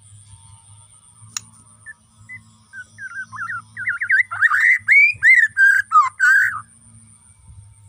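White-rumped shama (murai batu, Bornean form) singing. A few scattered whistled notes swell about halfway through into a loud burst of rich, rapidly varied whistled phrases lasting some two and a half seconds.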